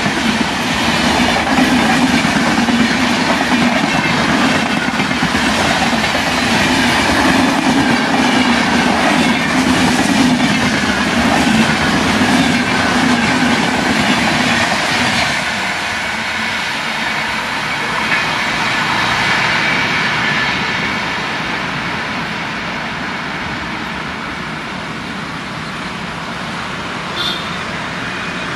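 Express train's LHB passenger coaches running past at speed, with rhythmic wheel clatter over the rail joints and a high squeal from the wheels. About halfway through the last coach goes by and the sound fades steadily as the train recedes.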